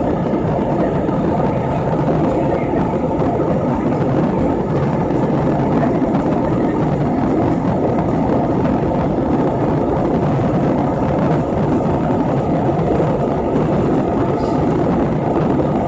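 Steady, unbroken rushing noise inside an airliner cabin in flight, from the jet engines and the air streaming past the fuselage.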